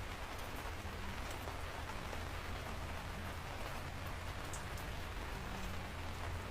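Steady rain falling, an even hiss with scattered individual drops ticking now and then over a low steady rumble.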